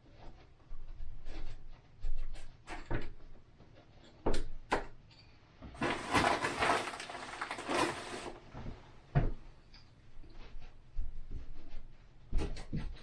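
Knocks, taps and clicks from handling materials and tools while fitting a window, with about two seconds of hissing midway.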